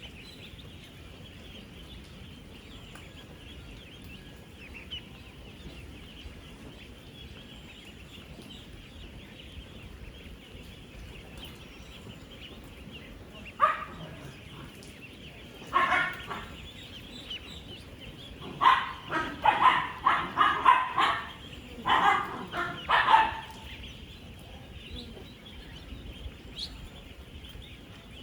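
A large flock of 10-day-old ducklings peeping continuously in a dense, steady chorus. Through the middle part, several bursts of louder, lower calls stand out close by, in quick clusters.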